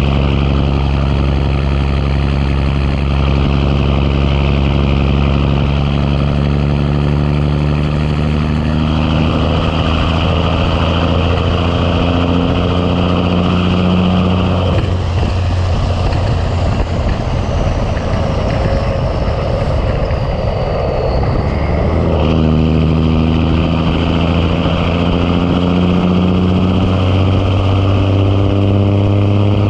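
Big Cam Cummins inline-six diesel in a 1986 Ford LT9000 pulling under load while hauling a truck. Its note rises slowly for about fifteen seconds, drops away into a rushing sound for several seconds as the driver lets off, then comes back and climbs again.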